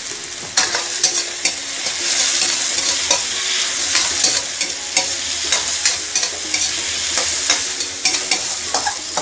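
Tomatoes, onion and garlic sizzling in hot oil in a wok while a spatula stirs them, with frequent clicks and scrapes of the spatula against the pan starting about half a second in.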